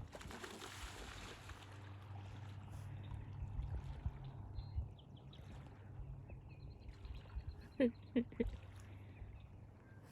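Three short rising calls from a waterfowl about eight seconds in, over a low steady rumble.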